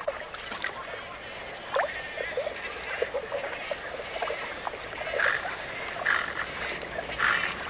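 A chorus of many short animal calls, scattered and overlapping, over a steady hiss.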